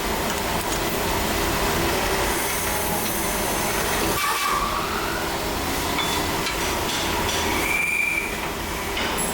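Steady loud din of factory machinery working metal, with a couple of brief high squeals, one rising about four seconds in and another near the end.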